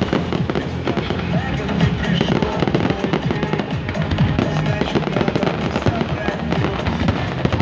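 A fireworks display: many shells bursting and crackling in quick succession, with music playing over the bangs.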